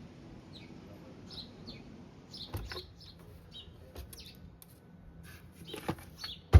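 Birds chirping faintly, a string of short calls that drop in pitch, with a few sharp clicks or knocks in the second half, the last one loudest near the end.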